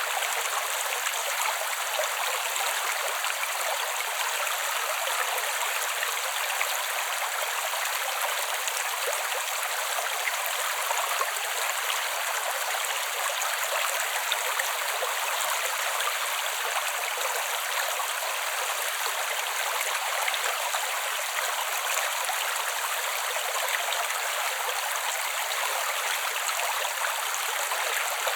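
Small creek running: a steady, even babble of flowing water, mostly high-pitched, with no deep rumble.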